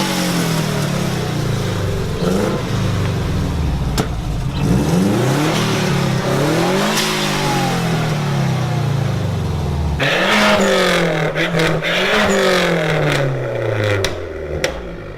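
Car engine revving up and back down over and over, its pitch climbing and falling in repeated sweeps.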